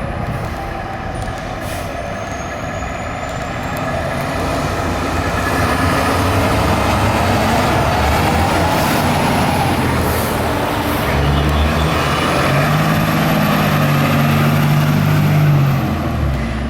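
Fire engine's diesel engine driving past, growing louder toward the middle, with a deep engine note strongest near the end.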